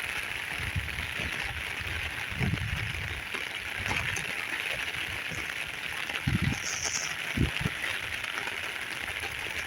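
Heavy rain falling, a steady hiss, with a few low thumps about two and a half, six and seven and a half seconds in.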